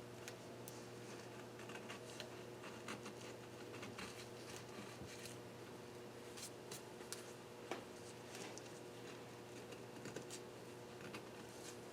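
Faint, irregular small clicks, ticks and scrapes of hand work on engine parts during cylinder-head disassembly and cleaning, over a steady low hum.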